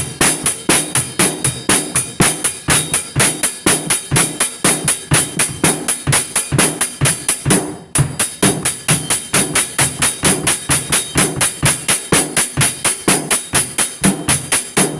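A fast, steady drum-kit beat: crisp hi-hat strokes on every beat over kick and snare hits, with a brief break about eight seconds in before the pattern picks up again.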